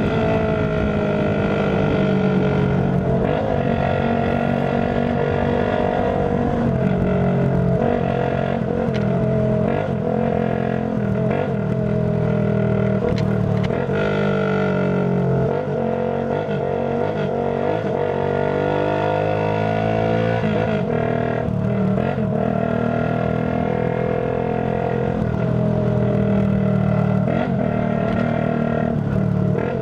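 Tuned 50cc Shineray Phoenix motorcycle engine running loud through a small aftermarket exhaust pipe while riding. Its pitch rises and falls with the throttle, with a long dip about halfway through before it climbs again.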